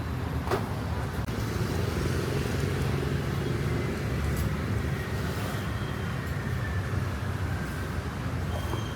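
Steady low rumble of road traffic, with a faint click about half a second in.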